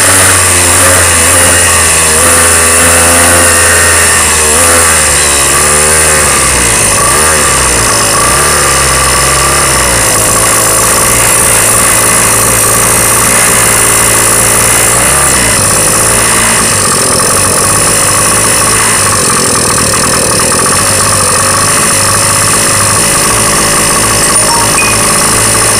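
Motorcycle engine running loudly, its pitch rising and falling with the throttle for about the first ten seconds, then holding steadier.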